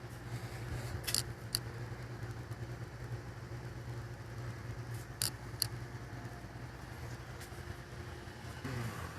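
Ground-source heat pump running with a steady low hum. Two pairs of short sharp clicks come about a second in and again about five seconds in.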